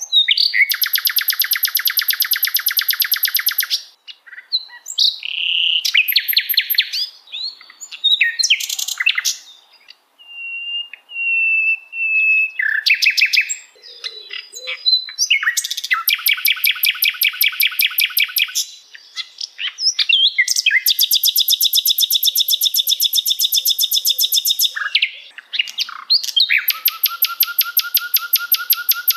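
Recorded songbird song of the kind used as masteran training audio: long, very rapid trills lasting a few seconds each, alternating with short whistled notes and chattering phrases.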